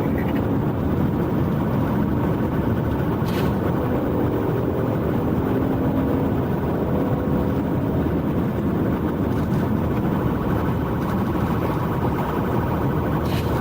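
Steady vehicle engine and road noise, with brief clicks about three seconds in and again near the end.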